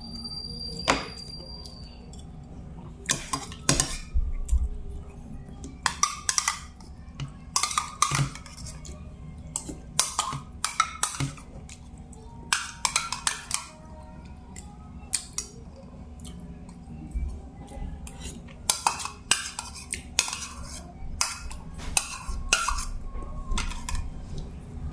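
Spoon and fork clinking and scraping against a plate, in irregular short knocks throughout, while a meal of rice and sautéed string beans is eaten.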